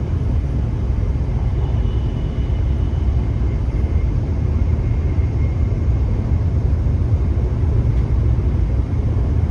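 Steady low rumble of an E7 series shinkansen running at speed, heard from inside the passenger cabin, with a faint high whine.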